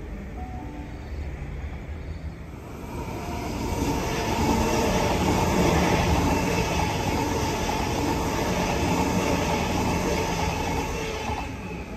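Sydney Trains K set double-deck electric train running into the platform. Its rumble on the rails swells about three seconds in and stays loud, with a steady high ringing tone over it, then eases a little near the end.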